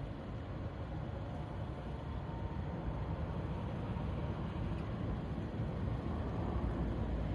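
Low rumble of a jet airliner's engines at takeoff power, growing slowly louder.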